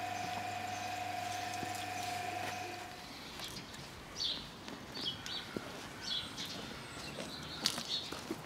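A steady mechanical hum with several held tones runs for about the first three seconds and stops at once. After that, birds chirp at intervals over scattered small clicks and rubbing as a microfiber wash mitt scrubs wet, soapy car paintwork.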